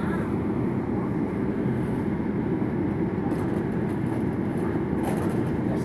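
Steady low rumble of a moving South Western Railway passenger train heard from inside the carriage, its wheels running on the rails. From about three seconds in there are faint light clicks and rattles.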